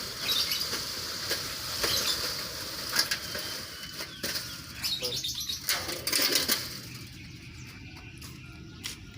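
Birds in an aviary flapping their wings and chirping: many quick flutters over a steady high chatter, thinning out after about seven seconds.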